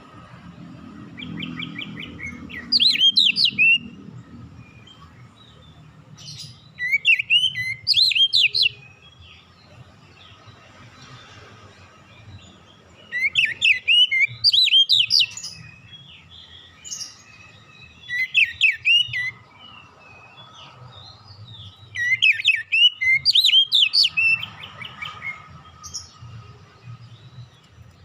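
Oriental magpie-robin (kacer) singing in short, loud phrases of rapid whistled and chirped notes, one burst every few seconds, with a faint low hum underneath.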